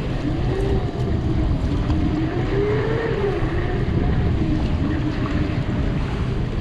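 Boat motor running at trolling speed, with a faint whine that wavers up and down in pitch, under wind on the microphone.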